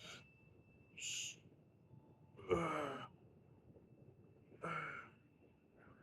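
A man breathing out and sighing as he rests between bench press sets. There is a short hissing exhale about a second in, then two louder voiced sighs. The first of these, about two and a half seconds in, is the loudest.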